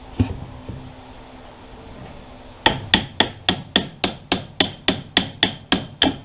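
A hammer striking metal in a fast, even run of about a dozen blows, roughly four a second, starting about two and a half seconds in, after a single knock near the start. The hammering comes as a snowmobile chain case is being forced into place in the chassis.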